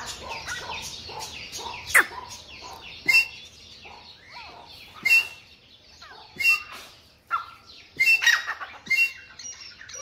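Birds calling: about seven short, sharp calls spaced a second or two apart, with fainter chirps between them.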